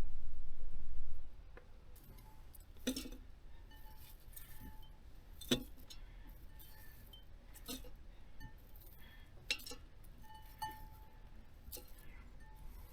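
A brief deep rumble in the first second, then scattered light clinks and taps of small hard objects, about six over the following ten seconds, a few with a short faint ring.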